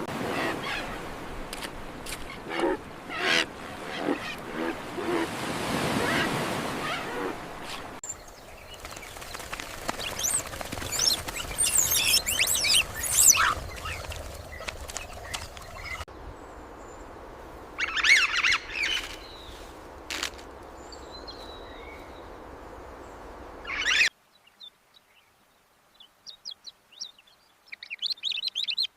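Outdoor nature ambience with birds chirping and calling, in several short stretches that change abruptly. It turns much quieter about four-fifths of the way through, leaving only faint scattered chirps.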